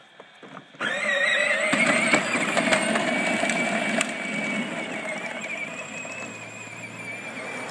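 Battery-powered John Deere ride-on toy tractor setting off, its electric drive motor and gears whining steadily, with a few sharp knocks from the wheels. The whine starts suddenly just under a second in and grows fainter after about four seconds.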